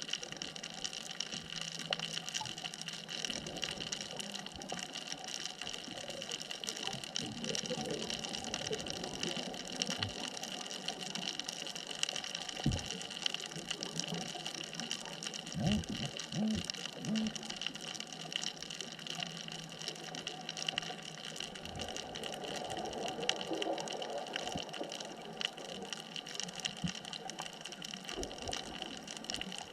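Underwater ambience with a steady hiss and faint constant tones, broken several times by bursts of gurgling bubbles from scuba divers' exhaled air.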